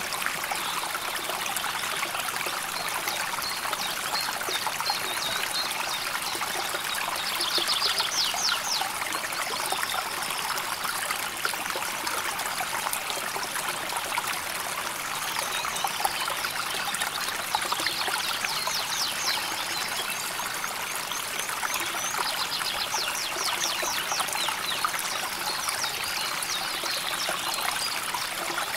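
A river flowing steadily, a continuous trickling, babbling rush of water. A few times, short rapid high trills come and go over it.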